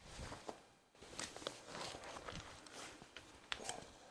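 Faint scattered clicks and light knocks, with a few sharper ticks in the second half: light shop handling noise.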